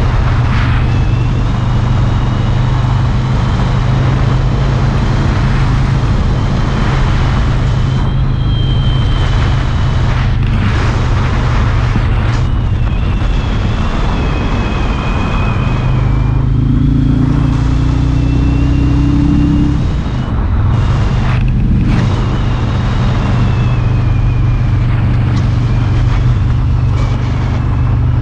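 Harley-Davidson Road King's V-twin engine running at a steady riding speed. About two-thirds of the way through, the engine note rises for a few seconds, then drops briefly before settling back to a steady note.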